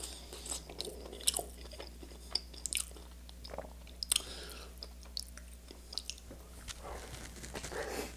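Chewing and biting sauce-soaked toast: irregular wet mouth clicks and small crunches.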